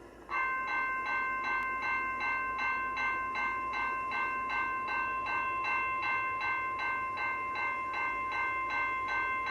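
Railway level-crossing warning bell starting up suddenly and ringing in quick, even strokes, about three a second: the crossing signals have activated for an approaching train.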